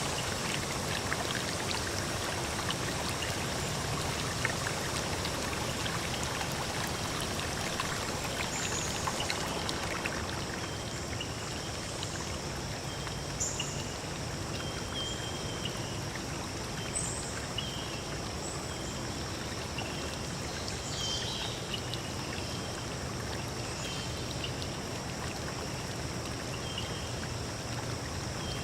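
Forest stream running steadily, with short high chirps every second or two.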